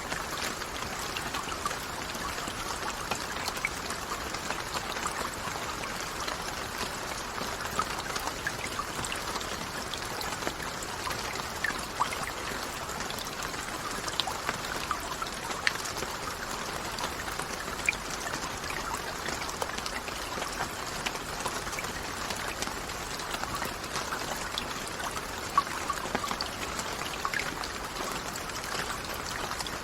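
Steady rainfall with many small distinct drips and patters over a constant hiss of falling water.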